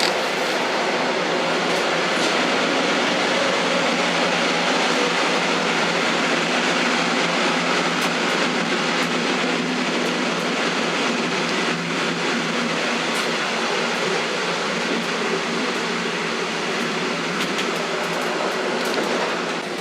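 Old train running: a steady, even rumble and rattle of the wheels and carriage, with a few faint clicks on top.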